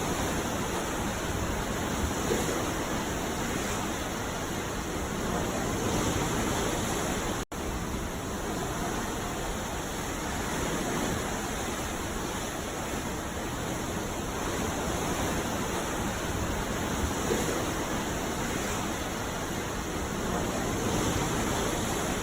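Ocean waves breaking on a beach: a steady wash of surf that swells and eases gently, with a sudden split-second dropout about seven seconds in.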